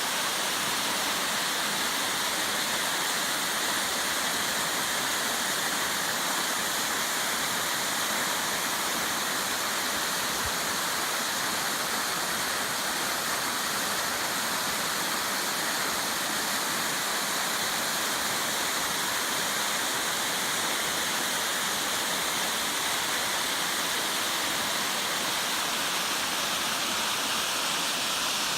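Jōseidaki waterfall's water pouring and splashing: a steady, even rush that does not change.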